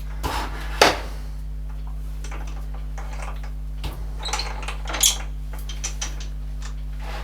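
Metal parts and tools knocking and clinking, with one loud knock about a second in and a cluster of clinks with a brief metallic ring around five seconds in, over a steady low hum.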